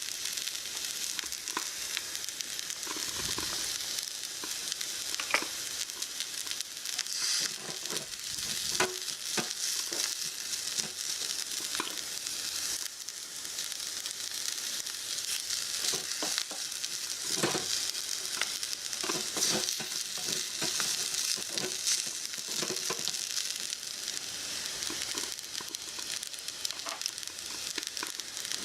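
Food sizzling in a miniature frying pan: a steady high hiss, with irregular small taps and scrapes as it is stirred with a tiny utensil.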